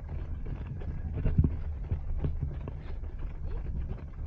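Running footsteps on pavement, striking in a steady rhythm, with wind rumbling on a small body-worn action camera's microphone.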